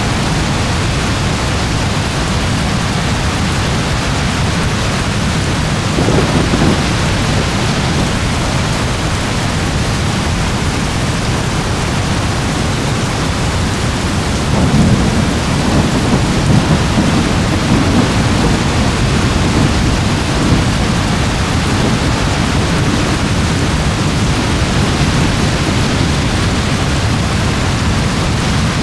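Steady heavy rain with thunder: a short low rumble about six seconds in, and a longer rolling rumble from about fifteen to twenty seconds in.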